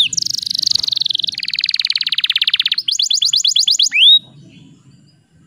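Domestic canary singing: a buzzy trill, then a fast rattling trill, then a run of quick repeated notes ending in one rising whistle. The song stops about four seconds in.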